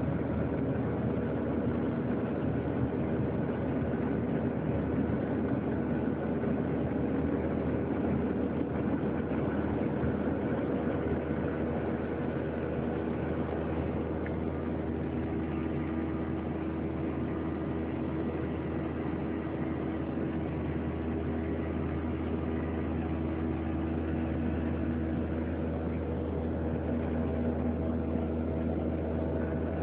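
Boeing 737-800's CFM56-7B jet engines heard from inside the passenger cabin: a steady drone with several held tones over a low rumble.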